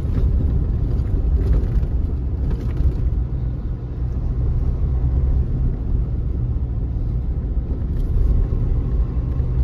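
Changan Hunter pickup's diesel engine and tyres on the road while driving: a steady low rumble.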